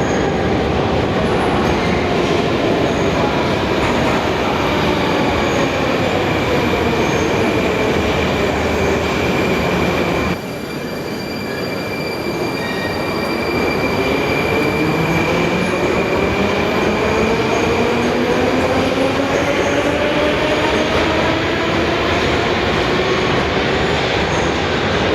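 Metro train traction motors whining downward in pitch as a train slows, over the rumble of wheels on rails. About ten seconds in the level drops abruptly, and a few seconds later a rising motor whine builds as a train accelerates away.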